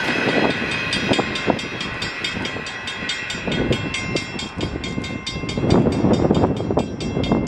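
Coal train freight cars rolling through a grade crossing, steel wheels clattering and knocking over the rails, louder about six seconds in. A rapid, steady ringing, about five strokes a second, runs over the clatter, typical of a crossing signal bell.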